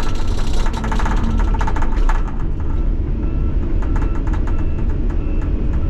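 Kenworth T800 semi truck's diesel engine running while pulling a loaded lowboy trailer, a steady low rumble heard from inside the cab, with rattling during the first two seconds.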